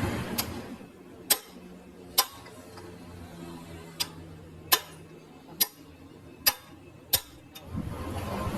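A series of eight sharp knocks or taps, roughly one a second, over a quiet background.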